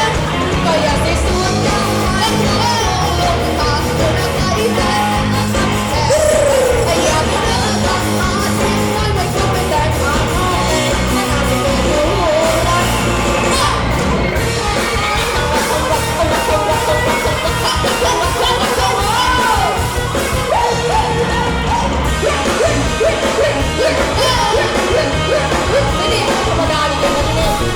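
A live band playing a rock-style song with singing and some shouting.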